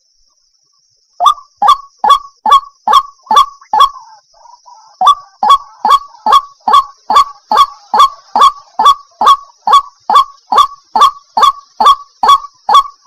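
Waterhen calling: a fast, even string of short, loud, identical notes, each sweeping downward, about two and a half a second. The calls start about a second in after a short silence, with a softer jumble of notes for a moment around the middle.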